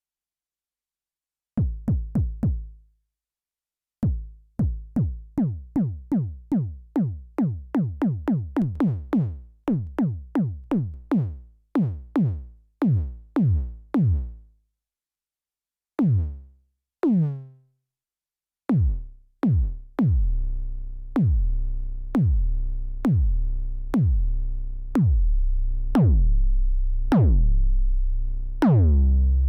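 Elektron Syntakt's analog BD Hard bass drum engine, dry with no effects, playing a sequenced pattern of synthesized kick drums, each with a fast downward pitch drop. It starts after a moment of silence with quick runs of hits. From about two-thirds of the way in, the kicks come about once a second and are longer and deeper, with sustained low tails.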